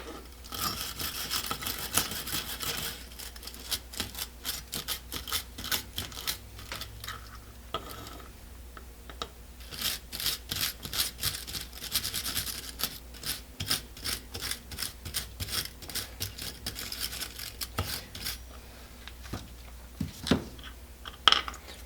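Hand wire brush scrubbing a brass stove part in quick back-and-forth strokes, cleaning off burned-out gasket residue. The scrubbing comes in spells with short pauses.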